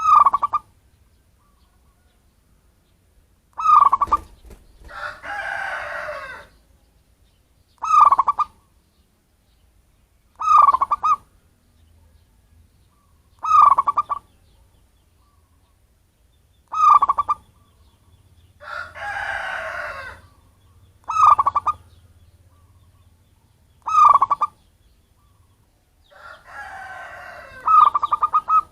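Zebra dove (perkutut) cooing: short phrases of rapid stuttering notes, repeated about every three seconds, played as a lure call. Three times a longer, harsher, noisier call breaks in between the phrases.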